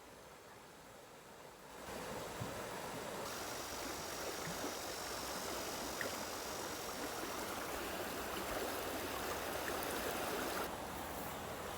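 Flowing water, a steady rushing noise that starts abruptly about two seconds in and drops off abruptly near the end.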